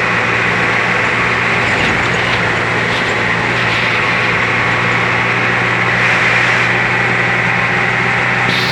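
Steady cabin noise inside a moving intercity bus: a low, even engine hum under loud road and tyre noise.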